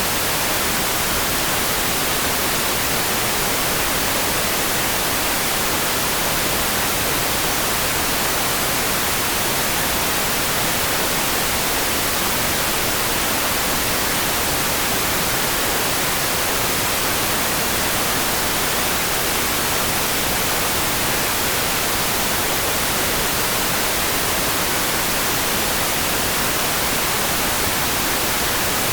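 Steady, even hiss of a rain sound, close to plain noise, with no single drops, thunder or changes standing out.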